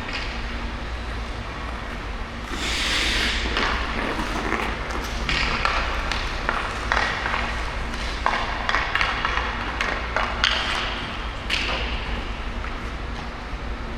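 Hockey skate blades scraping and carving on ice in a string of separate strokes, each starting sharply and fading, with sharp taps of stick and puck between them.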